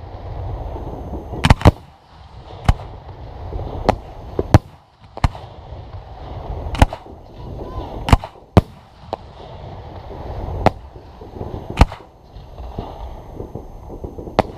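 Fireworks exploding: about a dozen sharp bangs at irregular intervals, some in quick pairs.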